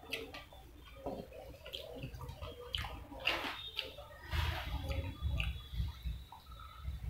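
Close-up eating sounds of a man chewing fried chicken drumstick meat: wet mouth noises with scattered short clicks, and a run of low, regular chewing pulses in the second half.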